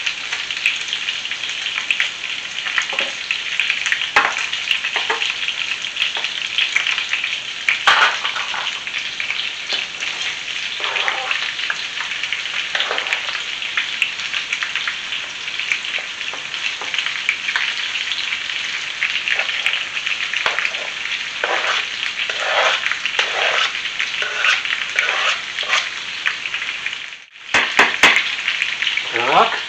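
Pork ribs sizzling in oil in a frying pan, with the scrape and knock of tongs and a slotted spatula as sliced onion and grated carrot go in and are stirred. The sizzle dips for a moment near the end.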